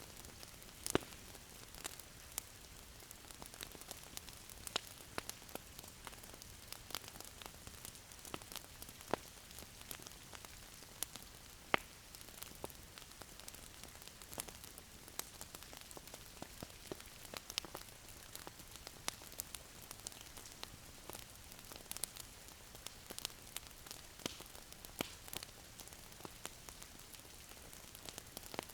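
Wood fire crackling in a fireplace: a soft steady hiss with many sharp, irregular pops and snaps, a few louder ones standing out.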